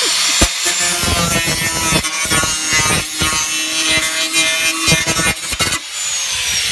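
Angle grinder cutting into the car's sheet-metal bodywork for the side exhaust outlet. It runs at full speed with a high whine and rough cutting noise, then is switched off about six seconds in, its whine falling as it winds down.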